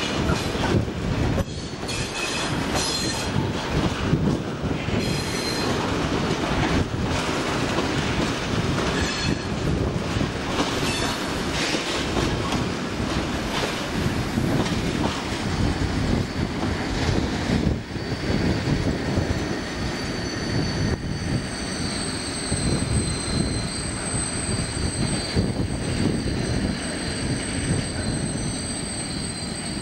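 A long freight train of tank wagons rolling past, its wheels rumbling and knocking over the rail joints. From about two-thirds of the way through, a steady high-pitched wheel squeal joins the rumble.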